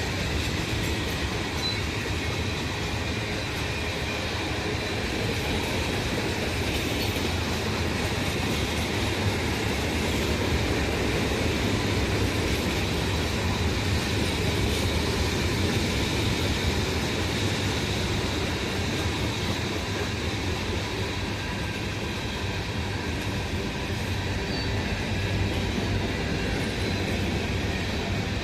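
Norfolk Southern freight train rolling past steadily, the cars rumbling and clattering on the rails, with a steady high-pitched ringing over the rumble.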